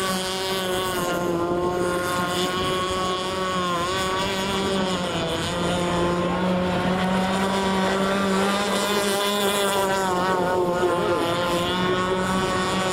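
Radio-controlled model boat's motor running steadily as the boat is driven on the water, one pitched tone that rises and falls slightly with the throttle.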